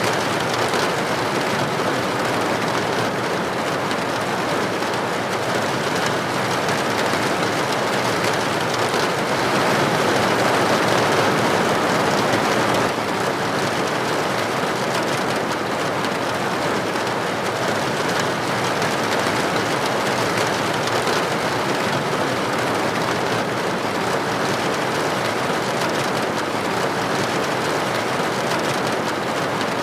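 Steady rain falling, a dense even hiss of drops with no pauses, swelling slightly for a few seconds about ten seconds in.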